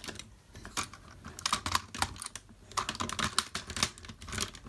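Hard plastic parts of a DX Engine Gattai robot toy clicking and snapping as they are handled and fitted together, in an irregular run of short clicks.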